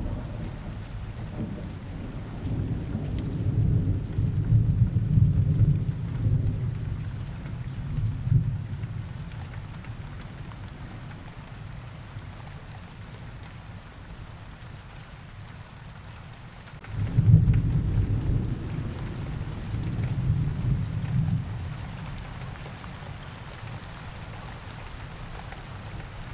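Steady rain with rolling thunder: one low rumble swells from about two seconds in and fades, and a second one starts suddenly about two-thirds of the way through.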